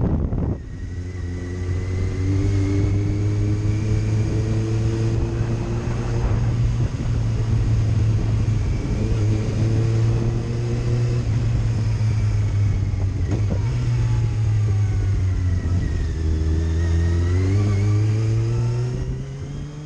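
Motorcycle engine heard from the rider's seat, accelerating through the gears: its pitch climbs four times and drops back at each change, over steady road and wind noise. The sound fades out near the end.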